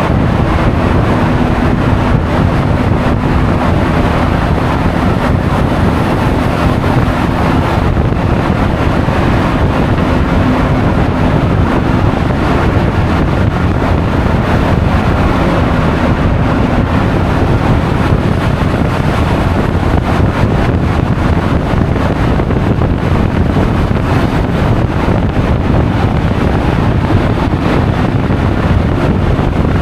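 Heavy wind noise buffeting an action camera's microphone while riding a Honda Forza 350 scooter at speed, with the scooter's single-cylinder engine droning faintly underneath, most clearly in the first ten seconds or so.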